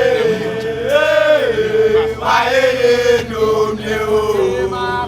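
A voice singing a slow, chant-like melody in long held notes that slide between pitches, breaking into shorter notes near the end.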